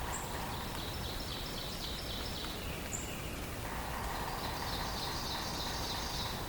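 A songbird sings a rapid high trill twice, each trill about two seconds long, with a few brief high chips in between. Steady forest background noise runs underneath.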